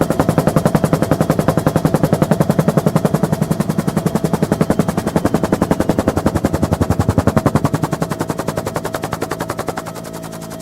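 Bell UH-1N Twin Huey helicopter heard from on board: heavy, rhythmic main-rotor blade chop at about ten beats a second over the steady drone of its twin turboshaft engines and transmission. The chop weakens near the end.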